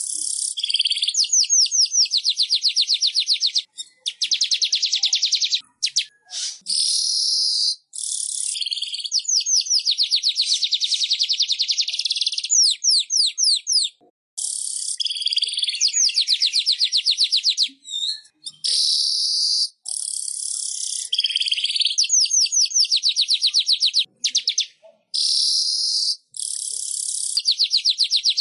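Manyar (weaver bird) song: high-pitched, fast trills of rapidly repeated notes alternating with buzzy chatter, in phrases of a few seconds with short breaks, played as a masteran song-training recording.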